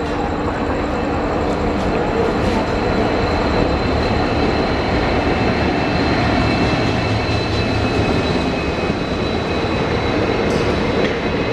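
Passenger train hauled by an EMD diesel locomotive running past, a steady, loud rumble of engine and wheels with a thin, constant whine on top.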